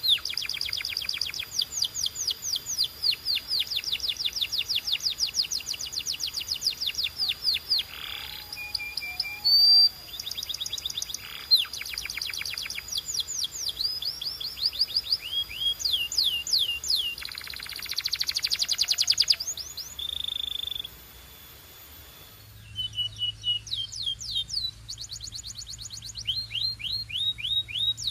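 Canary singing in fast trilled phrases, each a rapid run of repeated high descending notes, with short changes of pattern between phrases and a brief pause about three quarters of the way through.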